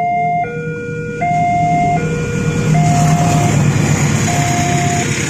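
Railway level-crossing warning alarm sounding two alternating tones, high and low, about a second each. About two seconds in, the rumble of a passing train builds under it and becomes the loudest sound.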